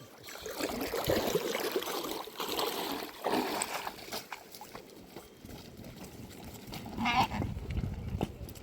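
Water splashing and sloshing, with a sheep bleating once near the end.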